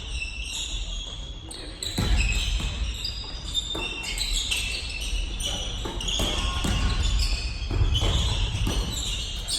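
Basketball game in a gym: a basketball bouncing on the court floor and many short, high-pitched sneaker squeaks, with low hall rumble.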